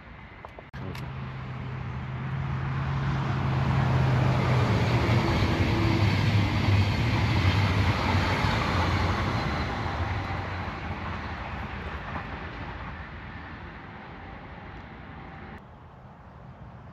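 An electric train passing by: a rushing of wheels on rails that swells to a peak and fades away, with a low steady hum underneath. It cuts in abruptly about a second in and drops off abruptly near the end.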